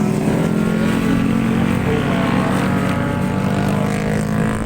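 Steady engine drone, its pitch shifting only slowly, over a low rough rumble of wind on the microphone.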